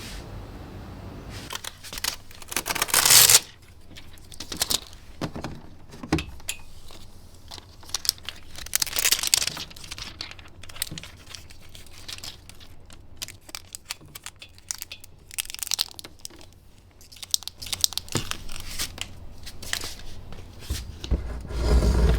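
Packaging being torn and crumpled by hand, in several bursts of ripping and rustling with scattered light knocks in between.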